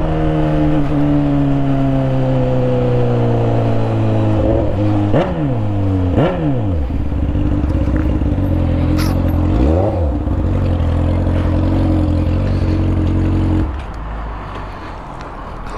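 Honda CB600F Hornet's inline-four engine running through an exhaust with the muffler removed as the motorcycle slows to a stop: the note falls steadily, rises and falls three times in short blips, then settles to an idle. The engine sound cuts off about two seconds before the end.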